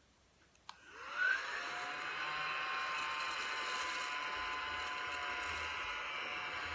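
Crumby mini vacuum, with its 12,000 RPM micro vortex motor, switched on with a click under a second in. It spins up with a short rising whine, then runs with a steady high whir while it vacuums sugar off a pillow.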